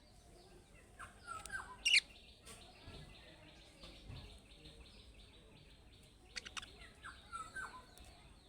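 Budgerigars chattering: a fast run of short warbling notes, with louder sharp chirps, the loudest a single rising call about two seconds in, and another cluster of chirps near the end.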